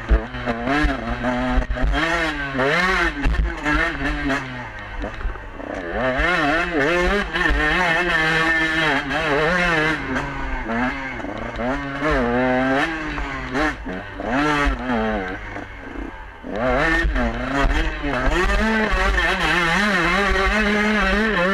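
KTM 125 two-stroke enduro motorcycle engine revving hard, its pitch rising and falling rapidly with throttle and gear changes, heard close up from on board. The revs drop briefly about three quarters of the way through, then climb again, over a low rumble of wind on the microphone.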